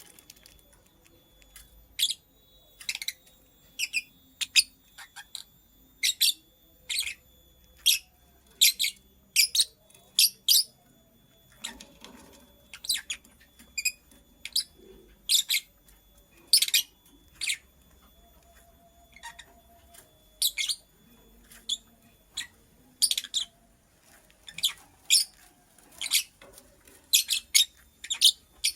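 Lovebird chirping: short, sharp, high chirps, singly or in quick pairs, about one to two a second.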